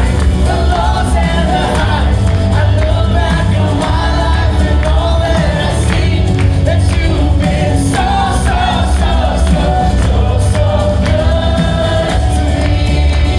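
Live gospel praise music: a group of singers over a band with a strong, steady bass.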